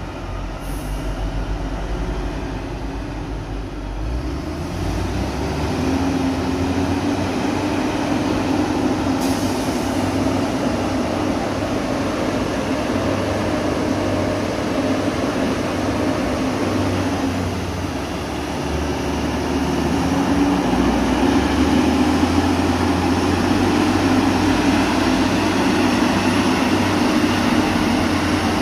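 Heavy diesel engines of a bulldozer and a truck working hard under load: a steady, loud drone with a humming note that swells about five seconds in and again around twenty seconds.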